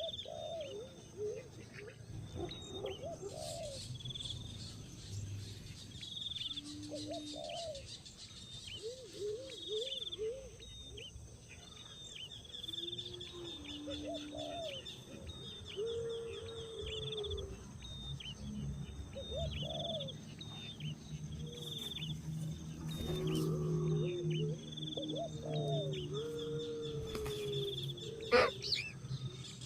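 Birds calling: a steady run of short high chirps over repeated lower, curved calls. A single sharp click comes near the end.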